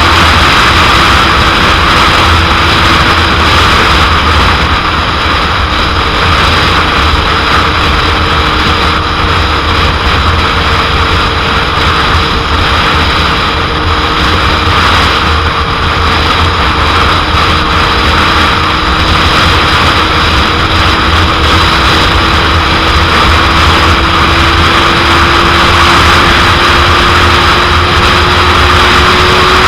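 Heavy wind rushing over the microphone, with a 2001 Suzuki GSX-R750's inline-four engine running at a steady cruise underneath; the engine note rises slightly near the end.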